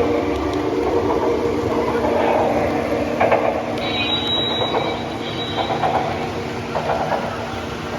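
Lionel model trains running on the layout track: a steady electric hum with a rattling clatter of wheels on the rails.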